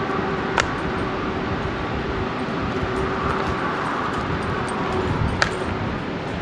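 Steady road and engine noise of a truck on the move, heard inside the cab, with two sharp clicks about five seconds apart.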